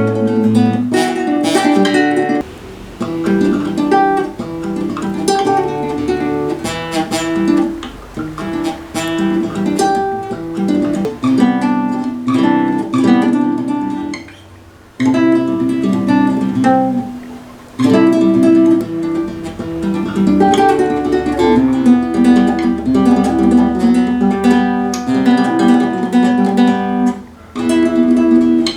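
Acoustic guitar playing a riff of picked and strummed chords, breaking off briefly a few times.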